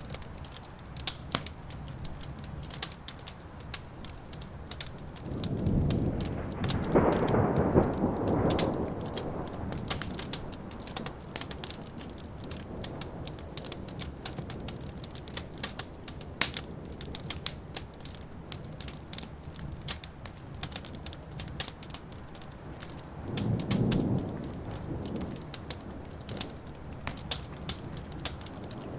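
Fireplace fire crackling with a steady spatter of small pops, while thunder rumbles twice: a long peal about six seconds in that lasts around four seconds, and a shorter one later.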